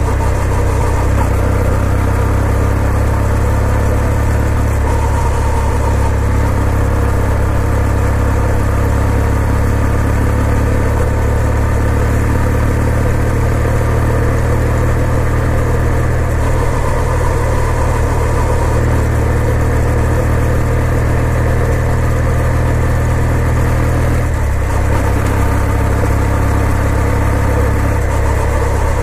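2020 Kawasaki W800's air-cooled parallel-twin engine running steadily, with a steady hiss of noise over it. The low engine note shifts slightly about 24 seconds in.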